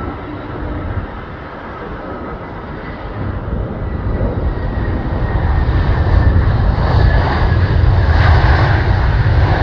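Jet airliner's engines, a deep rumble with a rushing noise that grows louder from about three seconds in.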